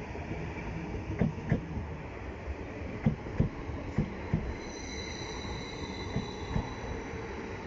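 Greater Anglia Class 745 electric multiple unit pulling slowly into the station, its wheels knocking in pairs over the rail joints over a steady rumble. A high-pitched squeal joins about five seconds in and fades before the end.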